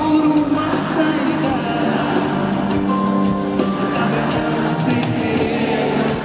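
Live concert music: a band with drums playing a pop ballad, with singing over it.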